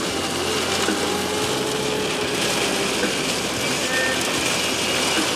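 Car cabin noise while driving: the engine's steady low hum under an even hiss of tyre and road noise.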